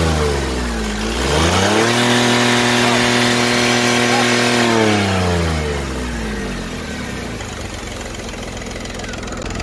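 Volkswagen Polo's three-cylinder diesel engine revved: a short blip, then held at raised revs for about three seconds before dropping back to a steady idle, on a test run after work on its faulty crankshaft speed sensor.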